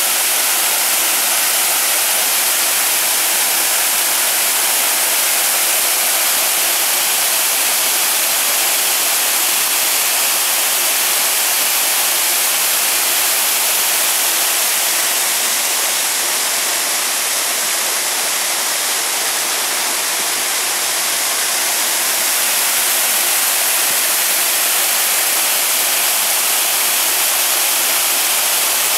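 Small waterfall cascading steadily, a dense even hiss of falling water, slightly softer for a few seconds past the middle.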